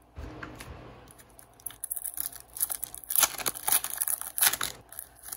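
Foil wrapper of an Upper Deck hockey card pack being torn open and crinkled in the hands. It comes as a dense run of crackles that starts about a second and a half in and grows louder.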